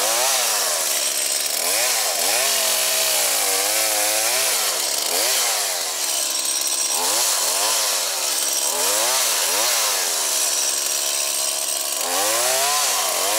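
Two-stroke chainsaw cutting birch logs for firewood, the engine revving up and dropping back again and again, about once a second or so, as the chain bites into the wood.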